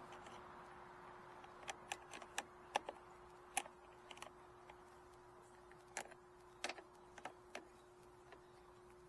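Faint, irregular metallic clicks and taps from hands working at a motorcycle's seat and fuel tank fittings, some in quick runs of two or three, over a steady faint hum.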